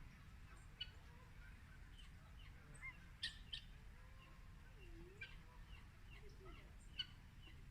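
Faint, scattered chirps of birds, many short high notes with a few sharper ticks among them, over a low background hum.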